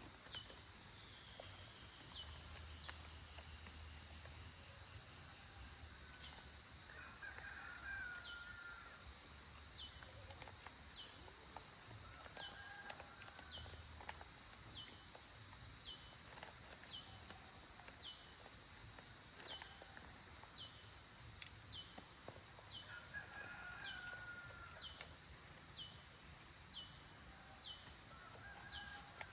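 Insects in the fields shrilling steadily on one high note, with a short falling chirp repeating about once a second. A few brief bird calls come in now and then.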